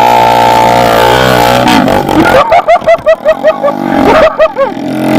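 Pit bike engine running at steady high revs, then from about two seconds in the revs surge up and down in quick, repeated blips, about four or five a second, as the bike is ridden over rough, muddy ground.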